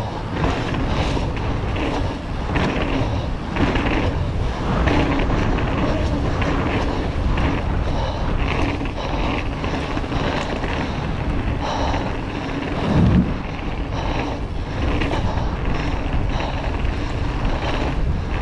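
Mountain bike ridden fast down a wet trail: wind buffeting the microphone over the rattle and clatter of the bike and tyres on the rough ground, with one heavier thump about two-thirds of the way through.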